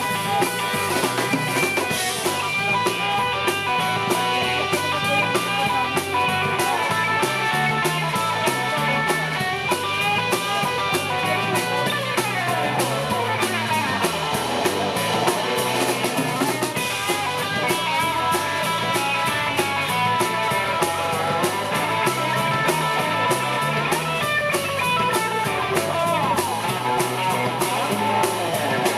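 Live rock and roll band playing an instrumental break: guitar lines over bass and a drum kit keeping a fast, steady beat on the cymbals, with no singing.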